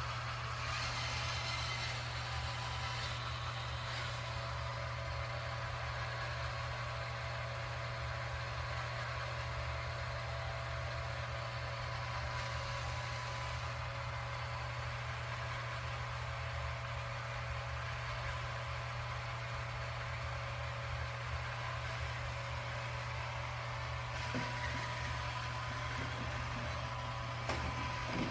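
Robot vacuum running: a steady motor hum with a few constant tones, and light knocks near the end.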